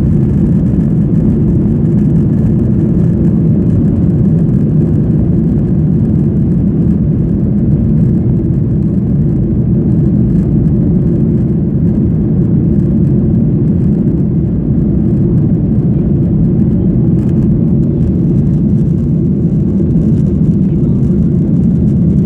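Boeing 737-800 cabin noise heard from a rear window seat: the CFM56-7B engines and rushing air make a steady, heavy low rumble as the jet climbs after takeoff.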